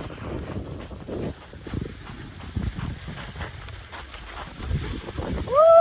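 Wind rushing over the microphone and the uneven rumble of a sledge sliding over snow. Near the end, a person lets out a loud "whoo" that rises in pitch and then holds briefly.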